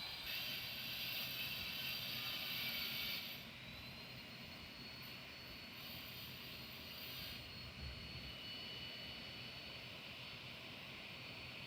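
Airplane engines: a loud rushing hiss for about three seconds, then quieter, with a steady high whine.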